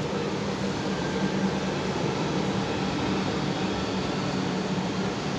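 A regional electric multiple unit train running past and drawing away, heard as a steady rumble over a constant low hum.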